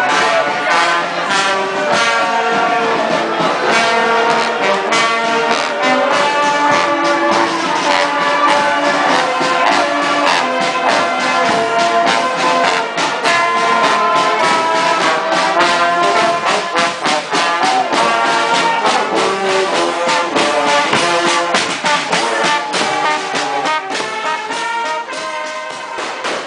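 Brass band playing a tune, with a regular beat running through it.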